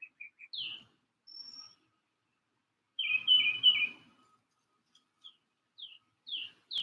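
Wild songbirds calling and singing: quick short chirps, several down-sliding notes and a brief high whistle, with a louder cluster of chirping about three seconds in.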